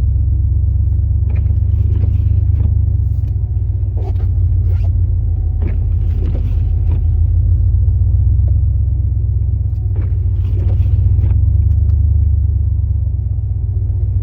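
A 2002 Chevrolet Silverado's 8.1-litre big-block V8 gas engine running as a steady low rumble while the plow truck backs up, with a few faint clicks and knocks over it.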